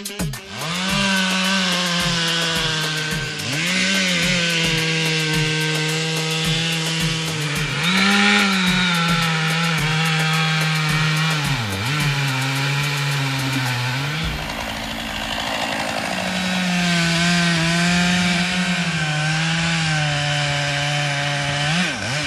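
Stihl MS 461 two-stroke chainsaw running at high revs while cutting wood. Its engine note sags under load a few times and picks back up.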